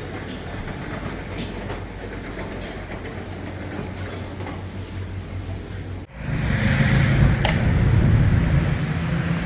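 Steady low rumbling background noise with a few faint clicks. It breaks off abruptly about six seconds in and comes back louder and deeper.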